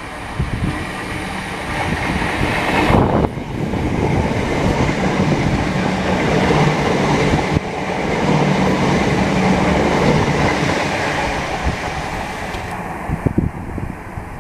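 Class 387 Electrostar electric multiple unit running through the station: a loud, steady rumble of wheels on rail with a low hum. The higher sound falls away near the end as the train goes by, leaving a few short clicks.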